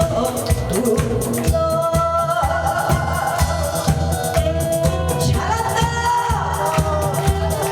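A singer performing a Korean trot song over an amplified backing track with a steady beat.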